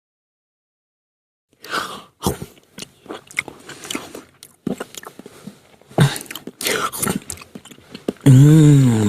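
A person eating something crunchy: about six seconds of irregular biting and chewing crunches, then a loud hummed "mmm" whose pitch rises and falls near the end, a sound effect standing for "hungry".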